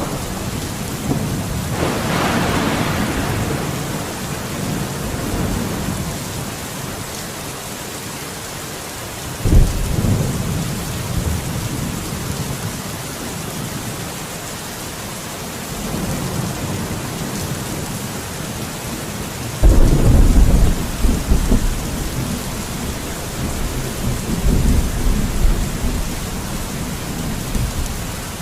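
Steady rain with repeated rolls of thunder: a crackling peal about two seconds in, a sudden clap about ten seconds in, and the loudest peal, with several cracks, around twenty seconds in.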